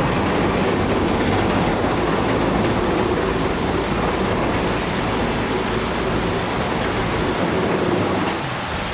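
Heavy demolition machinery working: a steady, loud rumble with clattering, easing off about eight seconds in.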